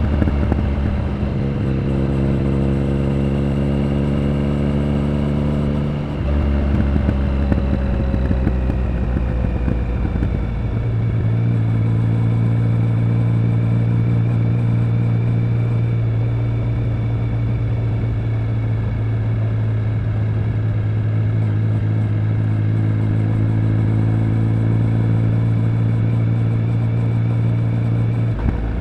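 Triumph Speed Triple 1050's inline three-cylinder engine and exhaust on a ridden motorcycle, cruising at steady revs. The engine note changes twice in the first eleven seconds, then holds steady.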